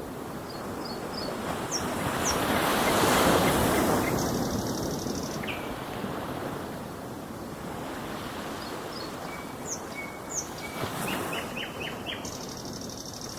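Ocean waves washing in, one swell building to its loudest about three seconds in and then subsiding, with birds chirping in short high notes over the surf.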